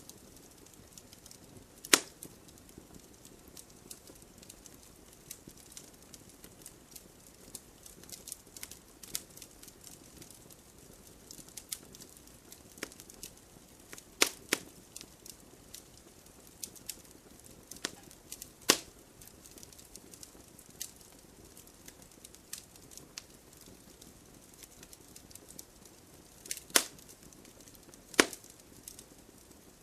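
Wood fire crackling in a fireplace: a soft steady hiss under frequent small ticks, with a handful of sharp louder pops spread through.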